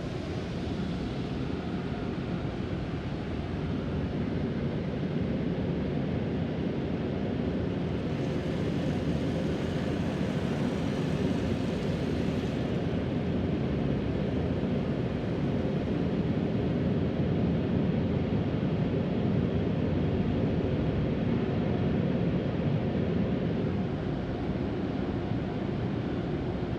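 Automatic car wash running, heard from inside the car: a steady rushing of spray and blowers, with a brief extra hiss from about eight to twelve seconds in.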